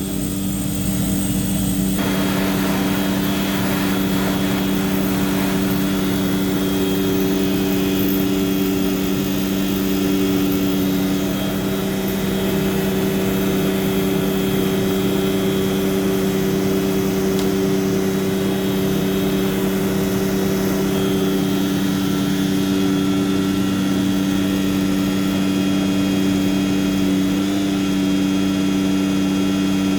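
Tanker truck's engine and product pump running steadily while offloading from the tank, a loud even drone with a steady hum. A broader rushing noise joins about two seconds in.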